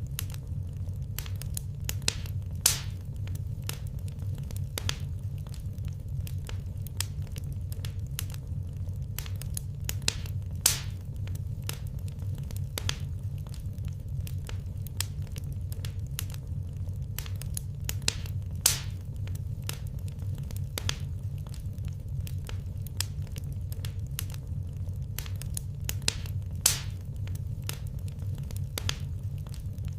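Wood fire crackling in a fireplace: frequent sharp snaps and pops over a steady low rumble, with four louder pops evenly spaced about eight seconds apart.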